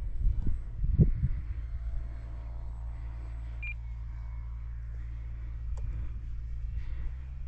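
Wind rumbling on the microphone, settling after about two seconds into a steady low hum. One short high electronic beep comes about halfway, and a faint click near the end.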